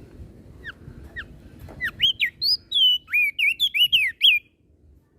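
Crested white-eye (opior jambul) singing. A few spaced downslurred whistles lead into a quick run of clear notes, each sweeping up or down, which stops abruptly about four seconds in.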